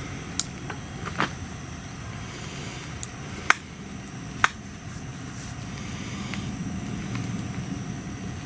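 Wood bonfire crackling: a handful of sharp pops, the loudest about three and a half and four and a half seconds in, over a low steady rumble.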